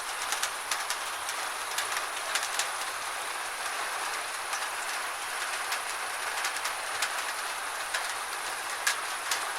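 Gentle rain falling steadily: an even hiss of rainfall with many sharp, irregularly scattered drop ticks.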